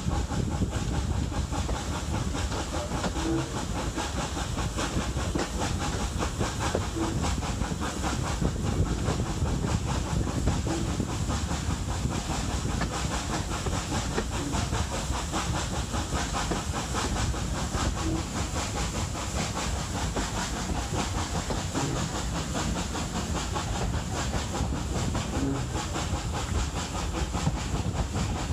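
Hunslet Austerity 0-6-0 saddle-tank steam locomotive working a train, with a steady run of rapid exhaust chuffs and steam hiss.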